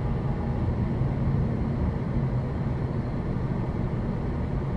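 Steady road and engine noise inside a moving car's cabin, a low, even rumble with no distinct events.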